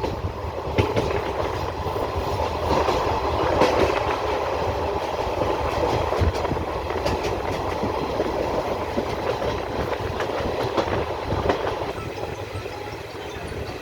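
Passenger express train running on the rails, its wheels clicking and clattering over rail joints through a steady rumble. The sound eases off slightly near the end.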